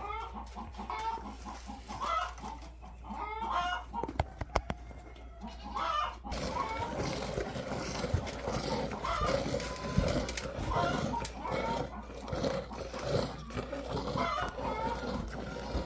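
Chickens clucking in short repeated calls, with a steady hiss setting in about six seconds in.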